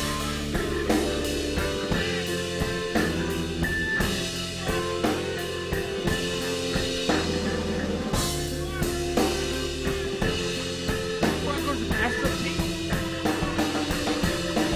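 Rock band playing an instrumental passage: a steady drum kit beat over held bass notes and sustained chords.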